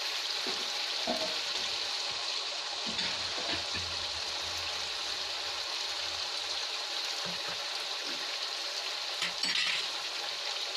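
Onion, ginger-garlic paste and spice masala frying in oil in a kadhai, loosened with a little water: a steady sizzle, with a few light scrapes of a steel ladle.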